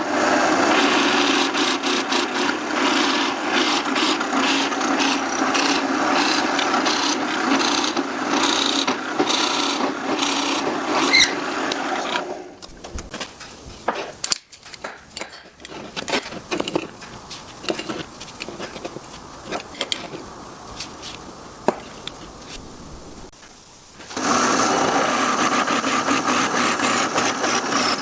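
A woodworking power tool running against wood: a loud, steady stretch for about twelve seconds, then quieter handling with light knocks and clicks, then the tool cuts in again for the last few seconds.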